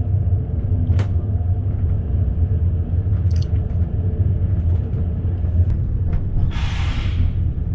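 Steady low rumble of the EuroNight sleeper train, heard inside the sleeper compartment. A few sharp clicks sound through it, and there is a brief hiss about seven seconds in.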